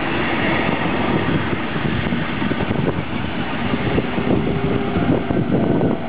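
A passenger train passing close by: the steady rumble and clatter of its coaches' wheels on the rails. A Siemens Taurus (class 182) electric locomotive comes past near the end, adding a faint steady hum.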